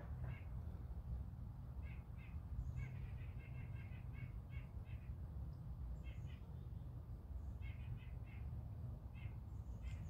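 Birds calling in short, harsh notes that come in small clusters every second or two, over a steady low rumble.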